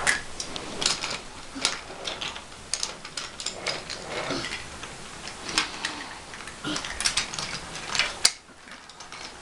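Wooden toy engines and trucks being handled, pushed along wooden track and coupled: a run of irregular clicks and clacks.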